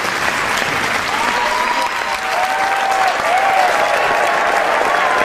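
Crowd applauding steadily, with drawn-out whooping cheers rising over the clapping from about a second in.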